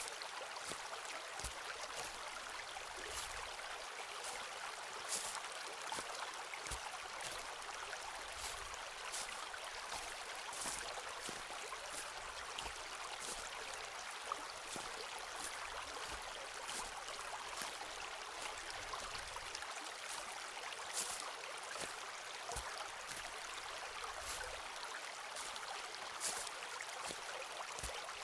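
Footsteps crunching on a forest path, short crisp steps about once a second, over a steady rushing hiss.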